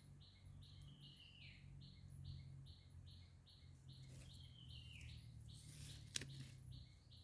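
Faint chirping: an even run of short chirps about two to three a second, with two separate calls that slide down in pitch, about a second in and about four seconds in. A single sharp click comes a little after six seconds.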